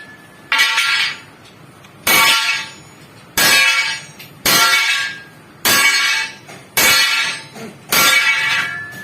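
A hammer striking a steel truck leaf spring seven times, about once a second, each blow clanging and ringing before it fades.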